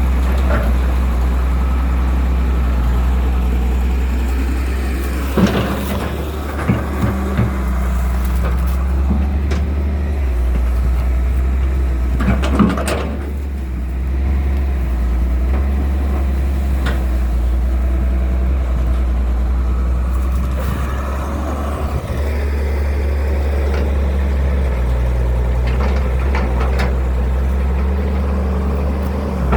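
Excavator's diesel engine running steadily with a deep drone, with a few short knocks and clanks now and then as it digs.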